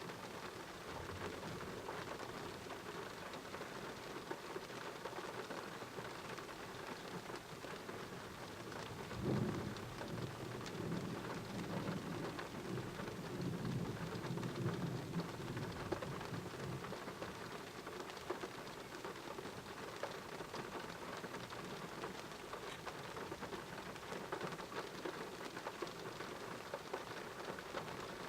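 Steady heavy rain falling, with a roll of thunder that breaks in suddenly about a third of the way through and rumbles for several seconds before fading back under the rain.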